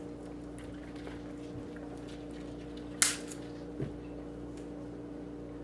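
A steady low electrical hum, with one short, sharp rustle about three seconds in and a soft knock just after.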